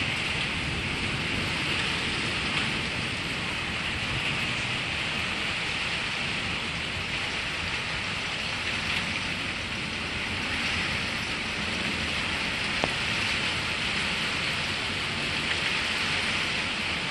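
Steady heavy rain hissing down on metal carport covers, with one sharp tick about three-quarters of the way through.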